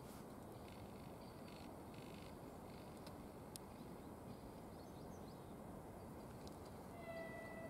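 Faint, steady low rumble of a distant freight train approaching behind a 2ES4K electric locomotive, with small birds chirping now and then. About seven seconds in, a faint steady high tone sets in.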